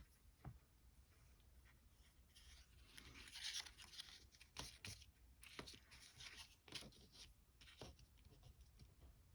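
Near silence with faint rustling and light taps of paper being handled, including a slightly longer rustle a few seconds in.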